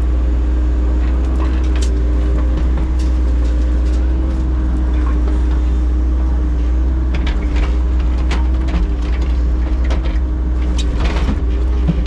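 An engine running steadily with a low rumble and a constant hum, while short clicks and knocks come and go, more of them in the second half.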